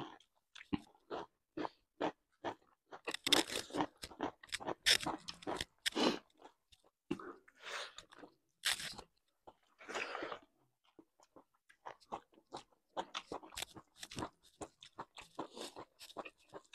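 Close-miked mukbang eating: two people chewing and crunching mouthfuls of pork, rice, greens and broccoli eaten by hand. The crunches come in many short, irregular bites, loudest about 3 to 6 seconds in.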